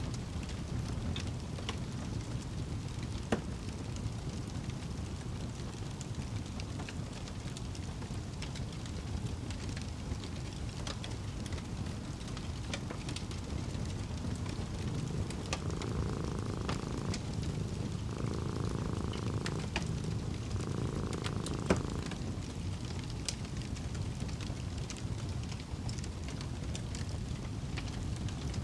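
Wood fire crackling in a fireplace over a low steady rumble, with scattered small clicks and two sharper pops. About halfway through, a cat purrs for several seconds in three breaths.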